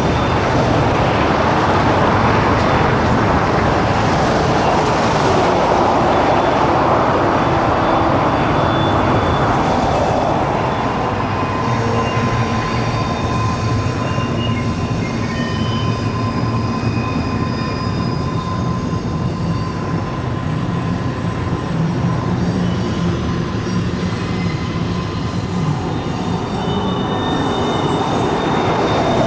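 A train running by: a steady loud rumble of wheels on the rails, strongest in the first third, with thin high wheel squeals held from about the middle on.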